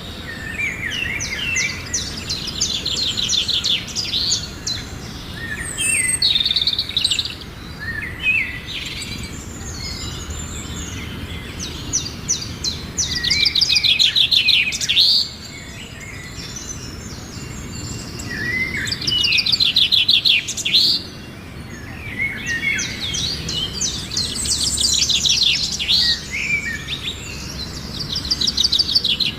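Birdsong: bursts of rapid trills and chirps, with a loud song phrase coming back about every six seconds.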